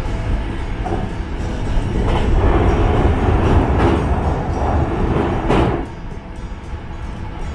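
Hankyu Kyoto Line train running at speed, heard from behind the driver's cab: a steady rumble of wheels on rail that grows louder about two seconds in as the train runs onto a bridge, then drops back suddenly near the end.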